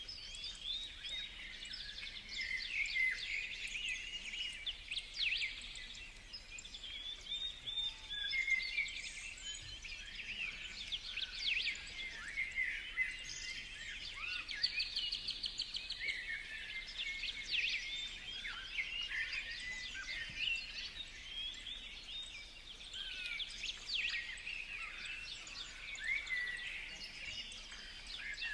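A chorus of small songbirds chirping and calling over one another, a dense, unbroken stream of short high chirps.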